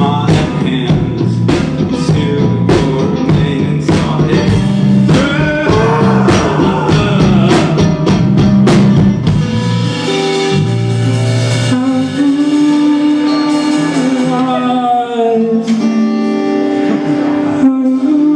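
Live rock band playing an instrumental passage: drum kit, bass and electric guitar. About halfway through the drums drop out, leaving held and sliding guitar notes over the bass.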